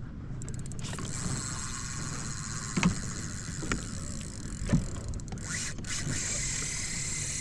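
Steady wind and water noise around a fishing kayak, with three short knocks about three, four and five seconds in.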